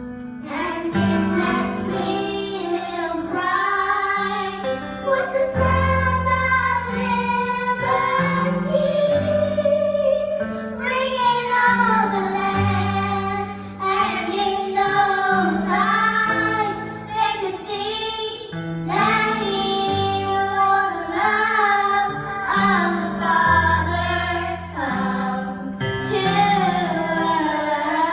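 A child singing a melody over piano accompaniment, the piano holding low sustained notes under the voice.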